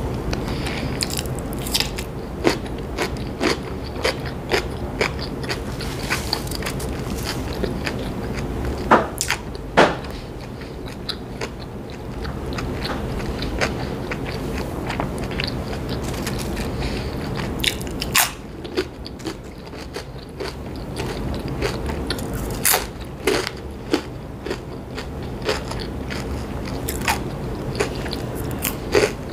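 Close-miked chewing with sharp, irregular crunches: a person biting into and chewing a dill pickle spear and potato chips.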